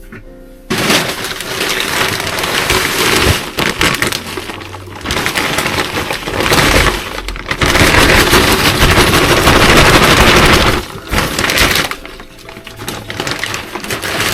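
Fast-forwarded sound of compost being handled and packed into a plant pot: a loud, dense crackling rustle that eases off near the end.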